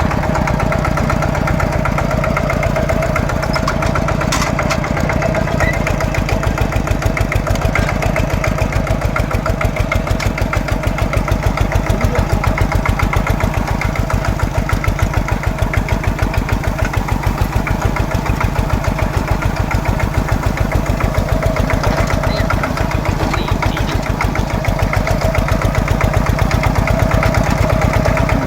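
Tractor engine running steadily, with an even, rapid pulsing beat.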